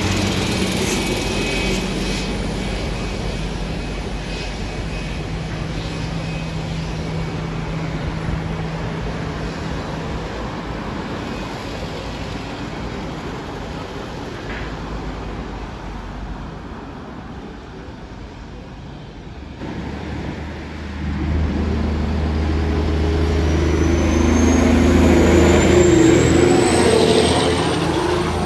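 Engine noise with a steady low hum that slowly fades. About twenty seconds in, a louder engine sound builds, and a high whine rises steadily in pitch over the last several seconds.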